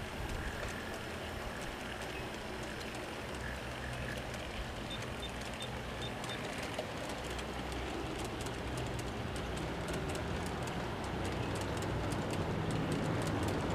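Freight train rolling past: a low rumble with rapid clicking of the wheels over the rail joints, growing louder through the second half.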